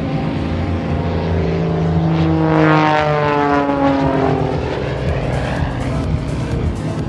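Single-engine propeller aerobatic plane flying past, its engine loudest about three seconds in and dropping in pitch as it goes by.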